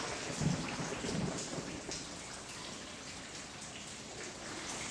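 Steady hiss of water, like rain or water pouring into a pool, with two soft low rumbles in the first second and a half.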